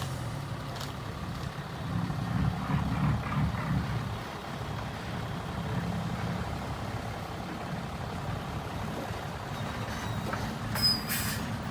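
Diesel engine of heavy earthmoving machinery running, its low drone swelling for a couple of seconds about two seconds in. A short, sharp burst of noise comes near the end.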